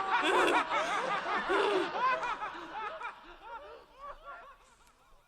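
Several voices laughing together in short, overlapping peals, dying away over the last couple of seconds.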